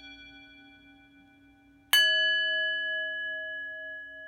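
Singing bowls ringing. The tones of one strike fade away, then a bowl is struck about two seconds in and rings on with several steady tones that slowly die away.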